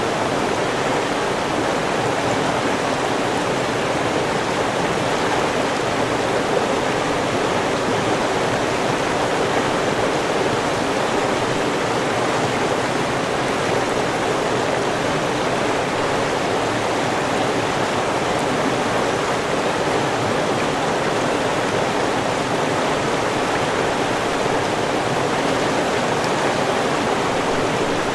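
River water rushing and babbling steadily, an even, unbroken wash of flowing water.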